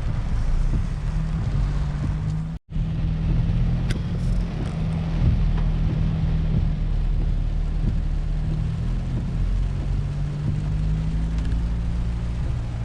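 Car engine running, heard from inside the cabin as a steady low hum. The sound drops out completely for an instant about two and a half seconds in.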